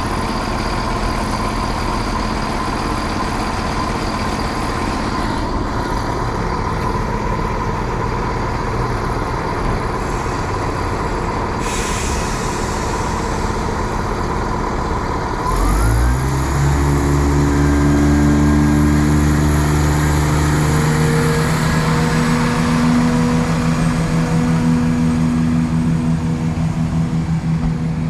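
Two-car diesel multiple unit idling at the platform, with a brief hiss of air a little before halfway. About halfway through, its diesel engines rev up loudly and hold a higher, steady note as the train pulls away.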